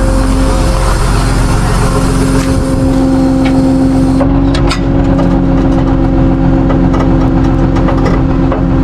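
Tow truck engine running steadily under load with a steady whine, as when working a winch, with a few sharp clicks about halfway through.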